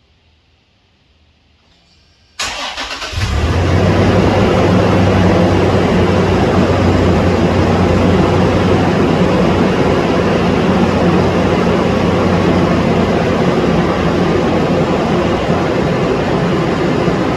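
Toyota 4Runner 4.0-litre V6 cold-starting: a short crank about two and a half seconds in, catching within a second, then settling into a loud, steady fast idle.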